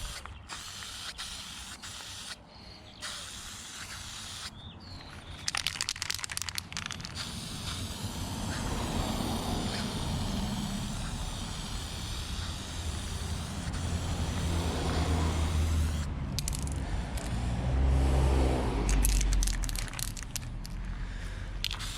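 Aerosol spray paint can hissing as a coat of paint goes on. There are sharp clicks near the start and end, and a low rumble swells up in the second half.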